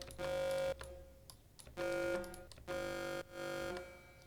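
Synthesized square-wave bass patch with heavy delay feedback, distortion and hall reverb, playing about four short held notes, each a steady buzzing tone with a strong ringing overtone. Faint clicks fall between the notes.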